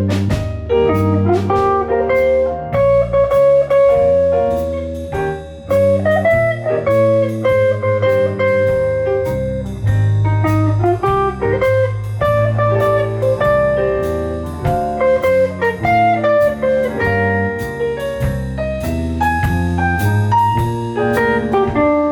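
Instrumental jazz band playing live: a melody line over bass notes and drum kit, with guitar prominent.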